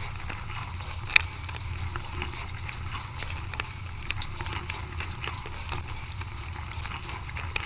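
Dishwasher running through its wash cycle: a steady low pump hum under a hiss of water, with scattered sharp clicks, the loudest about a second in and another about four seconds in.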